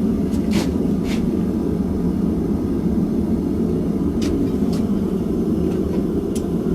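A forge running with a steady, loud rushing noise, with a few light clinks of steel tools scattered through it.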